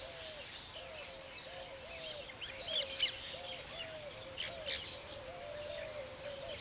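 Weaver birds chirping in short high bursts, loudest a little before the middle and again past it. Under them runs a low, even call that repeats about twice a second.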